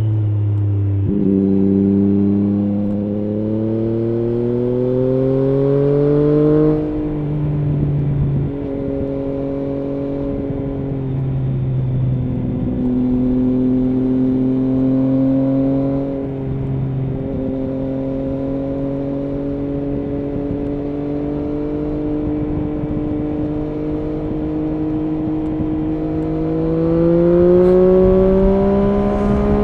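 Triumph Street Triple S three-cylinder engine heard on the move through an SC Project SC1-R slip-on exhaust with its dB-killer fitted. It accelerates with rising pitch for the first several seconds and drops sharply at a gear change around seven seconds. It then pulls at a fairly steady pitch through the middle and rises again as it accelerates near the end.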